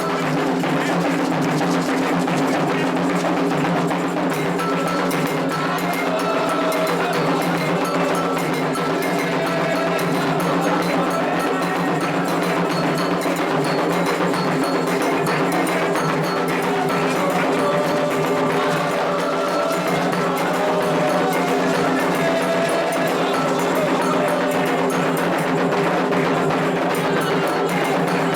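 Candomblé ritual music: atabaque hand drums and a struck metal bell (agogô) keep up a steady rhythm, with voices chanting over them.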